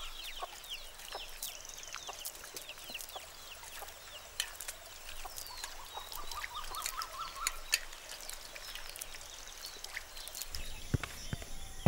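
Chickens clucking in runs of short calls, with high chirping over them. Near the end a low rumble and a few knocks come in.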